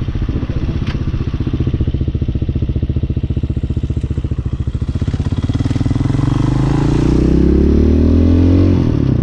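Hawk 250 dual-sport motorcycle's single-cylinder engine running while riding, pulsing at low revs, then accelerating with rising pitch from about halfway. The revs drop suddenly near the end, as at a gear change.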